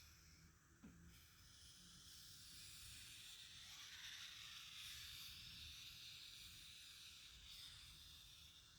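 Near silence: a faint, steady hiss of background noise, with one small click about a second in.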